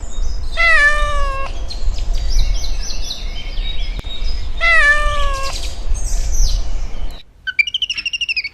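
A cat meowing: two long meows about four seconds apart, each dropping in pitch and then holding, with fainter high squeaky calls between them over a low rumble. The rumble stops suddenly about seven seconds in, and a run of quick high-pitched chirping calls follows.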